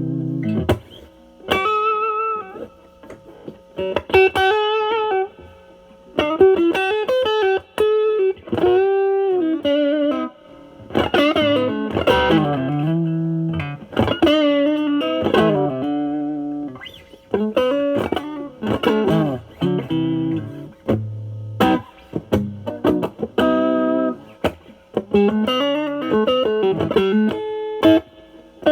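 Electric guitar overdriven by a Nobels ODR-1 pedal (bass cut mod, drive at about 10–11) into a Marshall Valvestate amp's clean channel, played on a semi-hollow guitar. It plays single-note lead phrases with string bends and vibrato, broken by short pauses.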